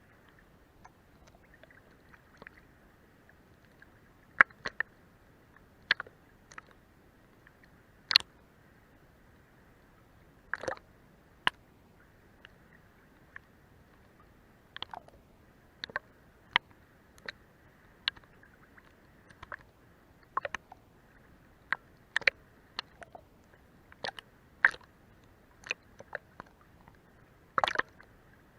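Seawater lapping and slapping against the hull of a boat: short irregular slaps and plops, about one a second, over a faint steady wash.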